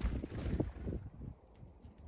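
Wind buffeting the microphone in a low rumble that swells for about a second and then dies down, with a sharp knock at the start.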